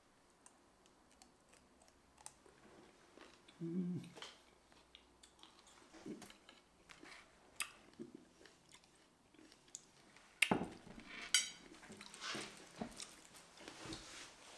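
Close-up mouth sounds of a person chewing a mouthful of fresh redcurrants, with small wet clicks and crunches and a brief low hum about four seconds in. A few sharper knocks and rustles come near the end.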